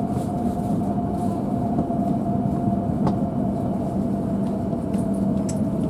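Tohoku Shinkansen train making a steady rumble with a constant high whine.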